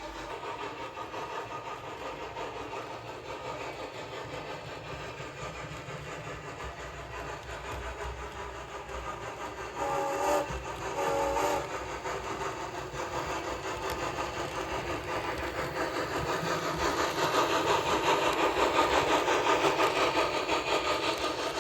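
HO-scale model train running on the layout's track, with two short toots from the locomotive's sound system about ten seconds in. The running noise grows louder in the last few seconds as the train comes closer.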